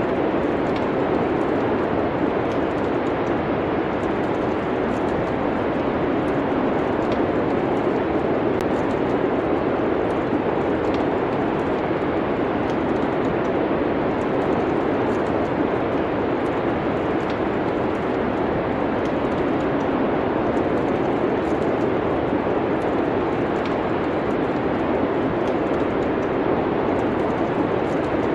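Steady rushing wind noise, with faint, scattered crackles of a wood fire.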